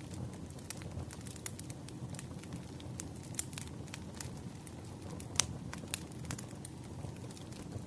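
Wood fire crackling: a steady low rumble of burning logs with scattered sharp pops and snaps, the loudest pop about five and a half seconds in.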